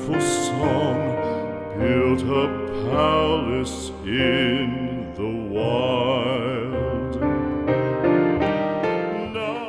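Slow song: a solo singing voice with wide vibrato holding long notes over piano accompaniment.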